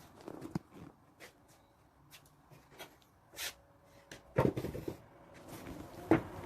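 Handling sounds of wooden furniture parts: scattered light clicks and taps, then a quick cluster of louder knocks about four and a half seconds in and one more sharp knock near the end.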